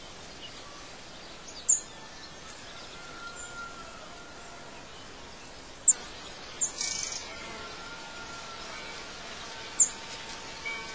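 Birds chirping: a few short, high chirps a few seconds apart, with faint whistles between them, over a steady background hiss.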